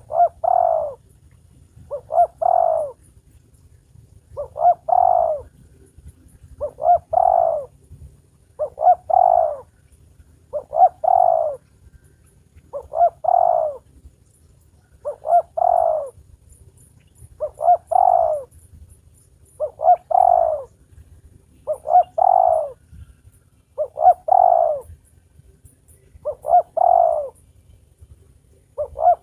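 Spotted dove (tekukur) cooing its call over and over, one phrase about every two seconds, each phrase a few quick notes run close together.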